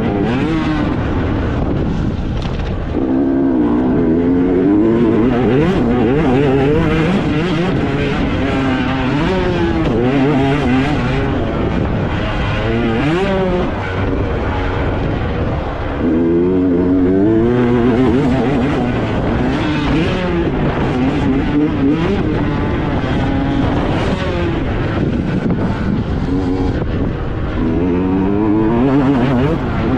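Motocross motorcycle engine noise, revving up and down again and again as the throttle opens and closes.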